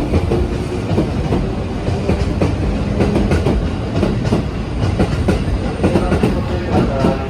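A train running past a station platform: a steady rumble with the wheels clattering over rail joints.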